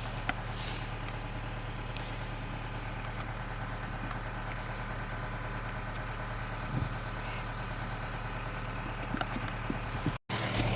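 Steady low machine hum like an idling engine, with a couple of faint knocks.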